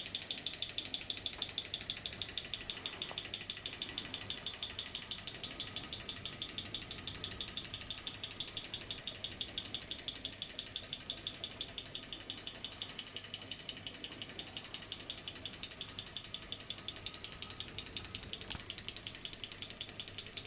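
Model Stirling engine running under load, belted to a Baker fan: a fast, even mechanical clicking that eases a little in loudness after the first few seconds.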